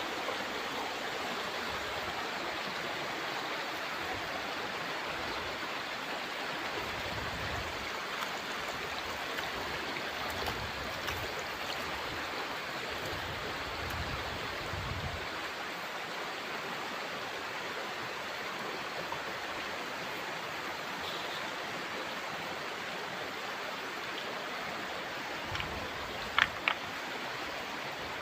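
Steady rush of a clear, shallow river flowing. Two brief sharp clicks near the end.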